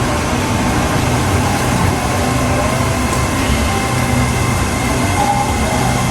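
Red Line electric commuter train running: a steady, loud rumble and hiss of the train in motion, with faint tones wavering over it.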